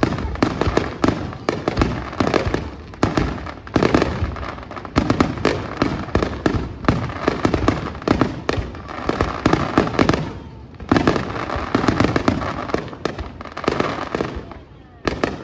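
Fireworks barrage: shells bursting in rapid succession, several loud bangs a second overlapping one another, with a short lull about ten seconds in before the bursts resume.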